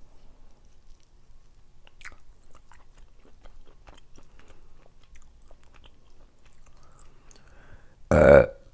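Close-miked chewing of rotisserie chicken: soft wet mouth clicks and smacks. Near the end comes a single loud burp.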